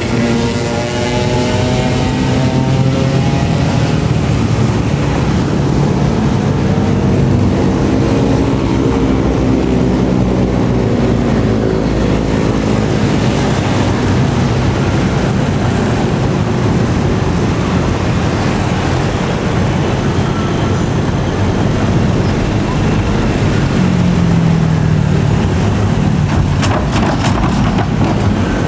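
Motor engines running steadily, their pitch sliding up and down through the first dozen seconds and again about 24 seconds in, with a quick run of clicks near the end.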